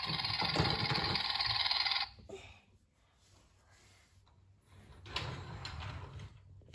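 Steady whirring of a small battery-powered toy motor that cuts off suddenly about two seconds in. After a near-silent stretch come faint handling noises near the end.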